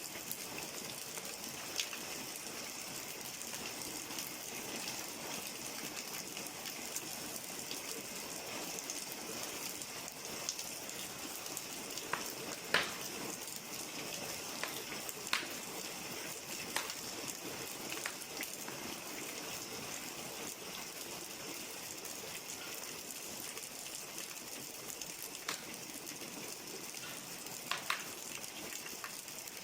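Wood fire burning in a brick fireplace: a steady hiss with scattered sharp crackles and pops every second or few.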